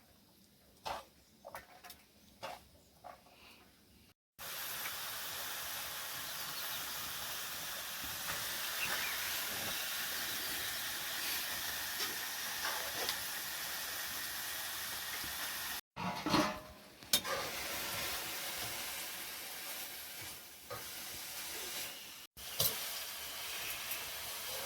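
Food sizzling as it fries in a pan: a steady hiss that starts about four seconds in after a few light clicks, and breaks off abruptly twice later on.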